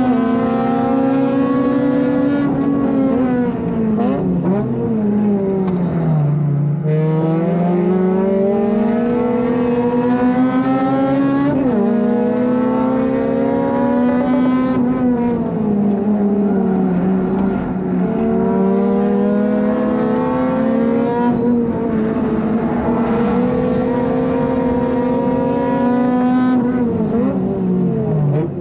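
Honda Civic FD2's four-cylinder engine at race pace, heard from inside the car: it climbs in pitch under hard acceleration, breaks at gear changes, and drops away several times as the car brakes and downshifts for corners.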